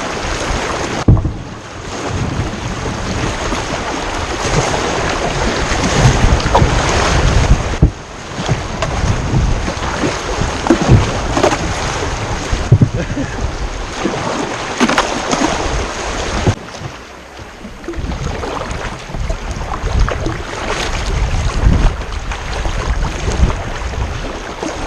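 Water rushing and splashing around a kayak, with knocks from paddle strokes and wind buffeting the microphone.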